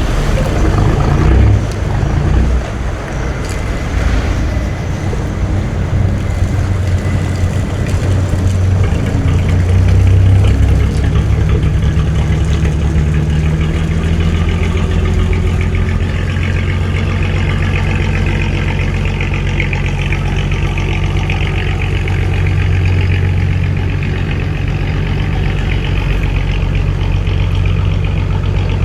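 A boat's engine running steadily with a low rumble.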